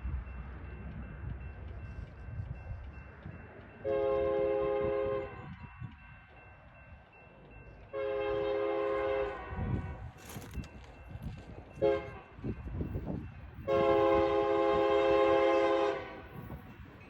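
Freight locomotive air horn sounding the grade-crossing signal, two long blasts, one short and a final long one, each a chord of several steady tones. A low train rumble runs underneath.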